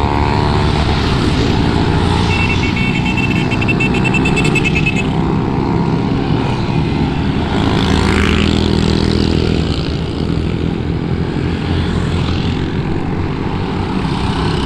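Motorcycle engine running steadily while the bike is ridden, with wind rushing over the microphone. A run of short, evenly spaced high beeps sounds for a few seconds, starting about two seconds in.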